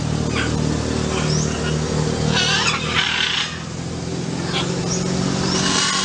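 Short bird calls over a steady low mechanical hum. The loudest calls come about two and a half to three and a half seconds in, with a brief call near the end.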